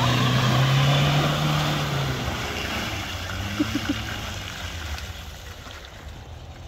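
Land Rover Freelander 1 engine pulling the car through deep mud, a steady engine note that fades over the last few seconds as the car drives away.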